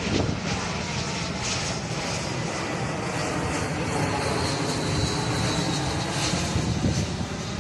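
Airliner's engines on final approach to land: a steady rushing noise with a faint high whine that grows a little in the middle.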